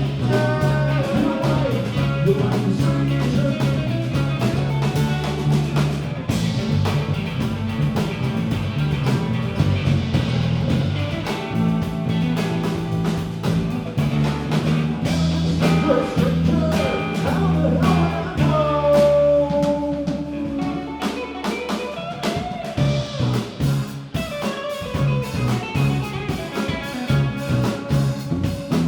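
A live band playing a rock song, with guitar over bass and drums.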